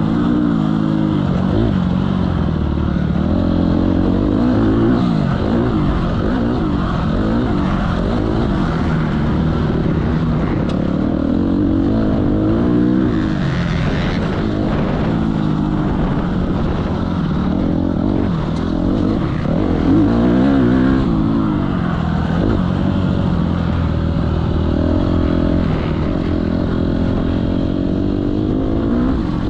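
Motocross bike engine running hard, its pitch repeatedly rising under throttle and dropping back as it revs up and down.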